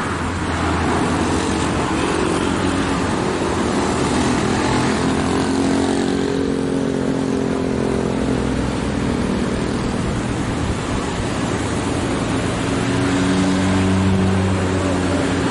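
Dump truck engine pulling hard at full throttle up a steep climb, its engine note shifting in pitch over steady road noise.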